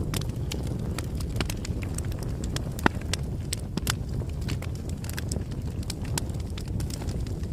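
Bonfire crackling: a steady low rumble of burning wood with frequent sharp pops and snaps, one louder pop about three seconds in.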